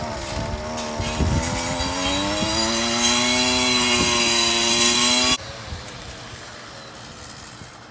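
A motor engine running and revving up, its pitch rising and then holding steady, before it cuts off abruptly about five seconds in. A quieter background hiss follows.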